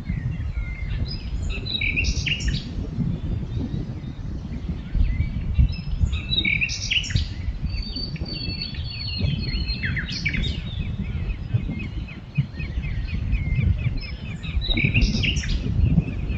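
Small songbirds chirping and twittering in short, scattered phrases, some as quick runs of repeated notes, over a constant low rumble.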